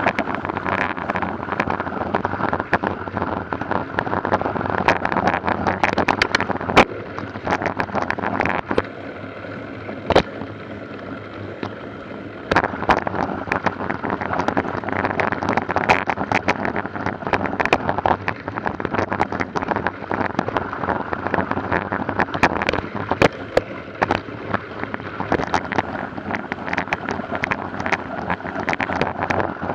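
Wind buffeting the microphone with a constant run of rattling clicks and knocks, like a camera carried on a bicycle over rough ground. It eases for a few seconds about a third of the way in, then picks up again.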